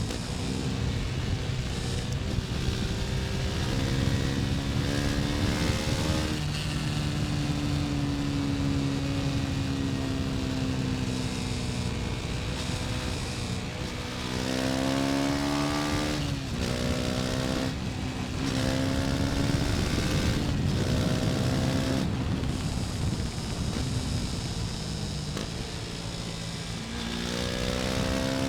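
KTM 250 Duke's single-cylinder four-stroke engine under way, its pitch climbing through the revs several times and dropping back sharply between, as at gear changes, over a steady rushing noise.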